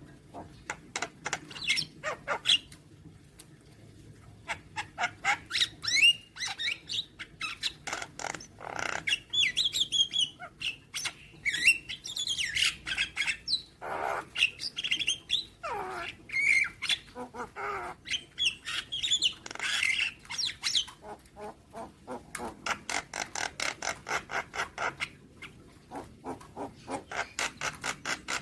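Javan myna (jalak kebo) singing: runs of rapid dry clicks, several a second, mixed with whistled notes, harsh chatter and a few long falling slurs.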